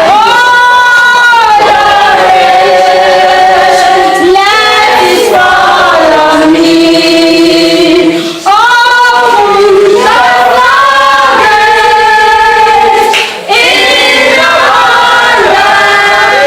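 A choir singing, mostly women's voices, in long held notes that glide from pitch to pitch, with two short pauses about eight and thirteen seconds in.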